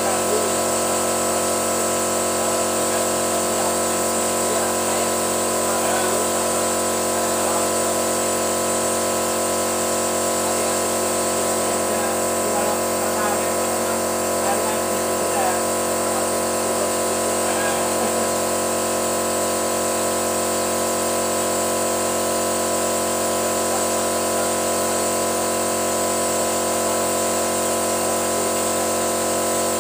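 Steady hum of a motor running at constant speed, with several fixed tones and a hiss that do not change.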